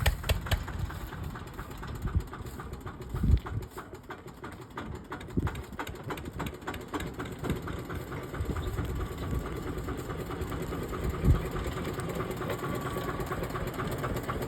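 Diesel tractor engine running at idle with a steady knocking beat, with a few louder thumps about three and eleven seconds in.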